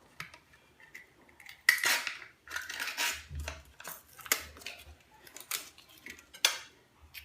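A spoon clinking and scraping against a saucepan and dessert pots as caramel flan dessert is emptied into the pan: a series of sharp clinks and short scrapes, the loudest a little under two seconds in.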